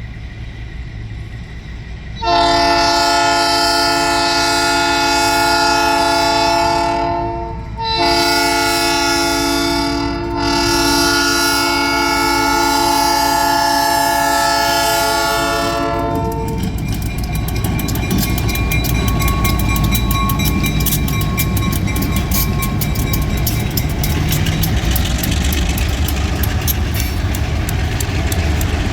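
Diesel freight locomotive's multi-chime air horn sounding two long blasts, the second held about twice as long. About sixteen seconds in, the train passes: the locomotive's engine rumbling and the wheels clicking rapidly over the rail joints.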